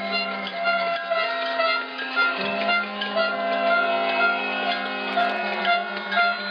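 Music on a wind instrument: a melody of held notes over a continuous low drone.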